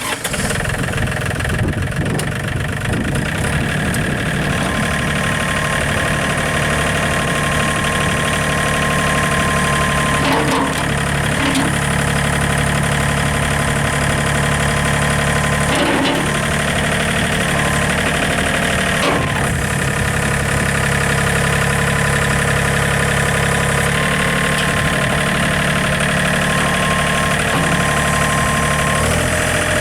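A John Deere 3320 compact tractor's three-cylinder diesel engine running steadily, with a steady high whine over it and a few brief knocks or clicks in the middle.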